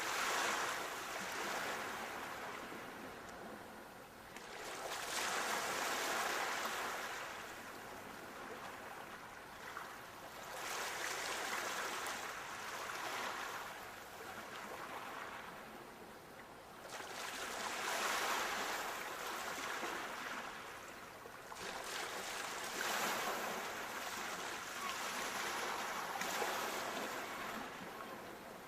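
Sea waves breaking and washing ashore, the surf swelling and fading every five or six seconds.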